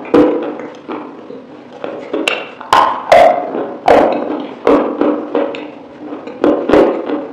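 Close-miked wet chewing of sauce-coated chicken wings: sharp smacking and clicking mouth sounds at an irregular pace, about one or two a second.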